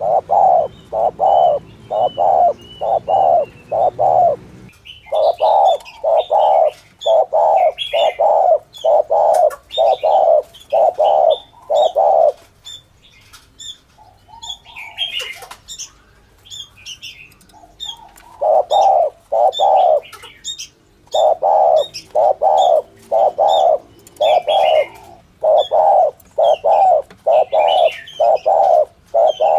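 Spotted dove cooing: runs of short, repeated coos, about one and a half to two a second, broken by a few pauses. Small birds chirp faintly in the background.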